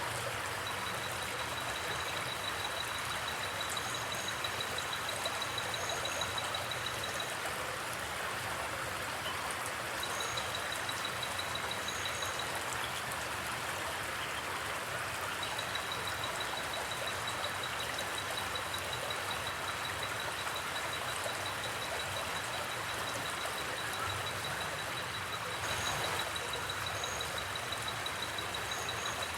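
Steady rushing of flowing stream water. Over it comes a faint, fast high-pitched trill that stops and starts, and a few short high chirps, often in pairs.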